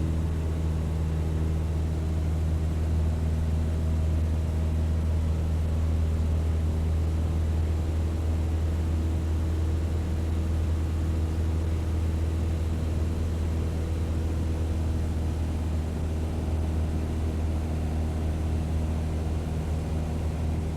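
Car driving at a steady speed: a constant low drone of engine and road noise with a few steady hum tones over it.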